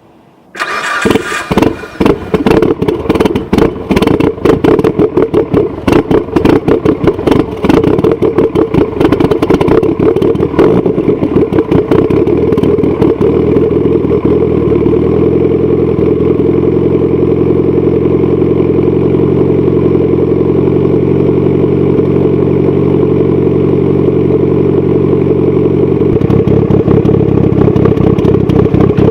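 Mitsubishi Lancer Evolution 8's turbocharged 4G63 four-cylinder, with Kelford 272 cams, starting up through a 3-inch RSR Exmag catback exhaust about half a second in. It runs unevenly with a choppy, pulsing exhaust note for the first ten seconds or so, then settles into a steady idle.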